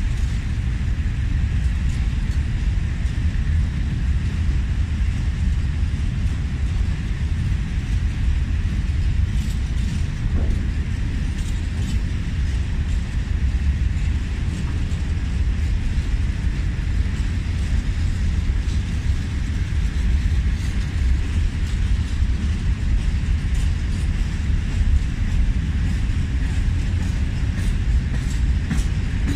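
Long freight train of open coal wagons rolling steadily past: a continuous low rumble of steel wheels on the rails.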